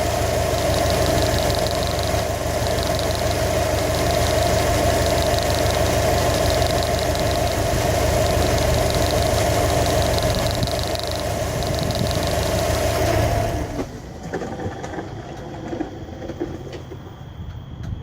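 2015 Subaru WRX STI's turbocharged 2.5-litre flat-four idling steadily, with a fast light ticking over it for the first ten seconds or so: the noise being chased as engine knock. The engine is switched off near the end, leaving only faint sounds.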